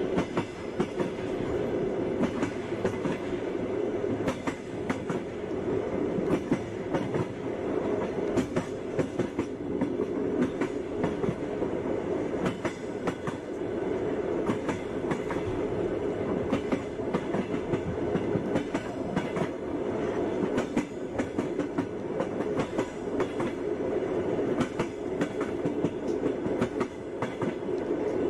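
Train running along the track: a steady rumble with the irregular clickety-clack of wheels striking rail joints.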